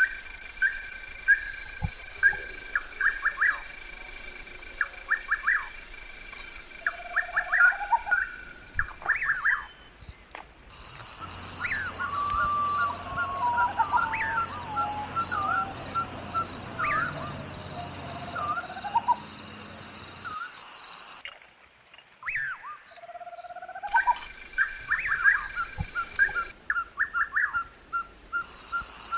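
Wild birds calling in quick repeated chirps and short whistles over a steady high insect drone, with the background changing abruptly several times.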